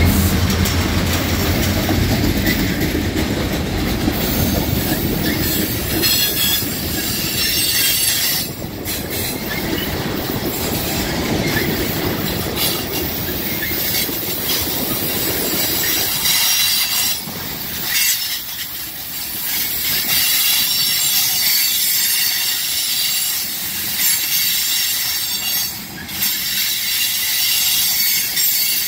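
Freight train tank cars rolling past close by, steel wheels squealing and hissing on the rails. The low drone of the EMD diesel locomotive that has just passed fades in the first couple of seconds, and the low rumble thins out about halfway through.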